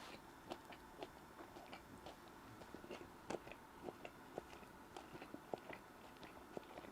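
A person chewing a mouthful of burger: faint, irregular wet mouth clicks and smacks, several a second.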